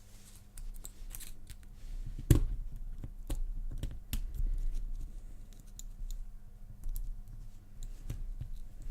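Irregular small metal clicks and scrapes of an Abus 83/60 padlock being taken apart by hand, with one louder knock a little over two seconds in.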